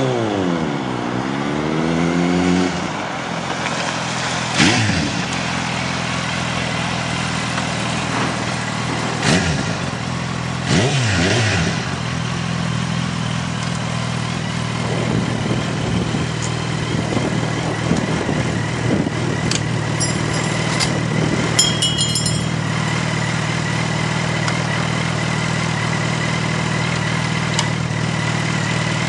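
Motorcycle engine idling steadily. The revs drop back to idle just after the start, and three short throttle blips follow in the first half, with a few light clicks a little after the middle.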